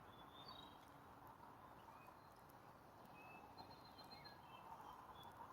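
Faint birds chirping: short, high calls scattered through, a cluster of them in the second half, over a steady background hiss.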